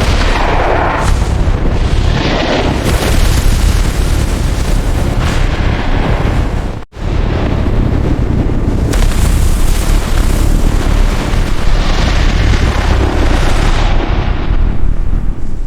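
Loud, continuous rumbling noise with a heavy low end, broken by a brief silent cut about seven seconds in.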